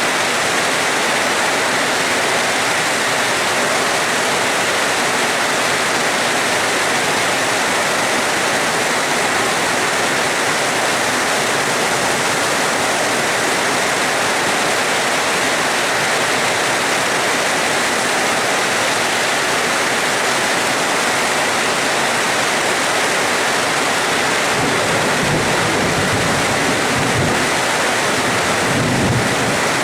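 Steady, heavy rain making a dense, even hiss. About 25 seconds in, a low rumble of thunder begins underneath it.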